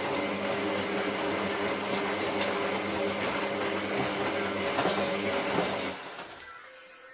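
Hotpoint 9534A washing machine running hard between rinses, a loud steady machine noise with a constant hum under it. It cuts off abruptly about six seconds in.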